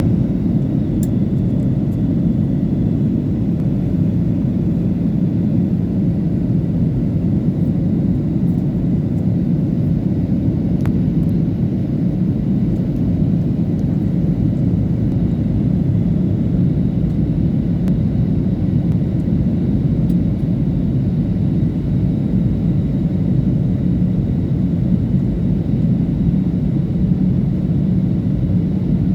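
Steady low rumble of an airliner cabin in flight, engine and airflow noise with no change in pitch.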